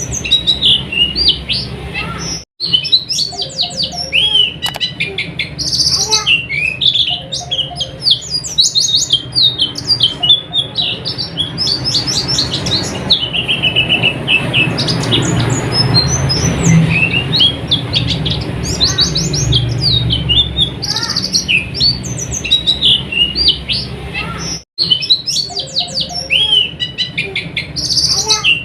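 White-eye (pleci) singing a fast, continuous twittering song of high chirps and trills, over a steady low hum. The sound drops out for an instant twice, a few seconds in and near the end.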